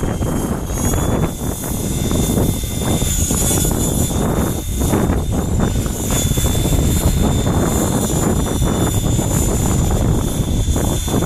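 KDS Innova 600 electric RC helicopter in flight: a steady high motor and gear whine over the rotor noise, with gusting wind rumbling on the microphone.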